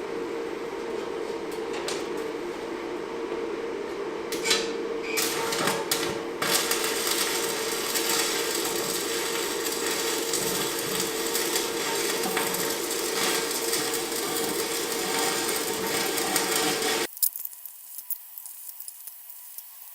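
A power tool's motor runs steadily with a constant hum and a harsh hiss, louder in spells a few seconds in. It cuts off abruptly about 17 s in, leaving only faint small clicks and handling noises.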